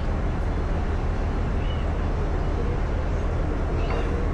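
Steady low engine rumble of a vehicle under way, even and unbroken.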